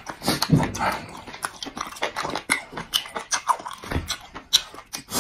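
Close-up wet chewing and lip-smacking of braised meat gnawed off a bone: a rapid, irregular run of smacks and clicks.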